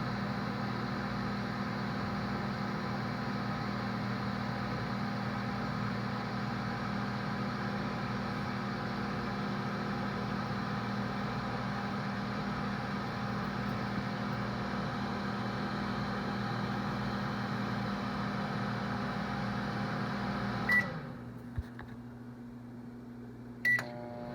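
Microwave oven running with a steady electrical hum. About three-quarters of the way through it gives a short high beep and the hum cuts off. A small click follows, then another beep just before it starts humming again.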